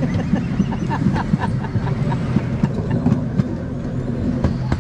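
Miniature park train running on narrow-gauge track, heard from its rear car: a steady low hum with frequent irregular clicks and clacks of the wheels on the rails.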